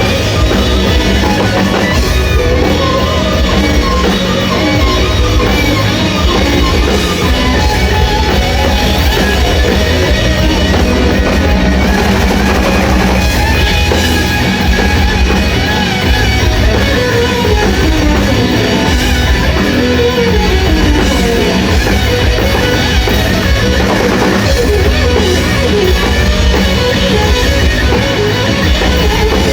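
Rock band playing live: drum kit and electric guitar, loud and continuous.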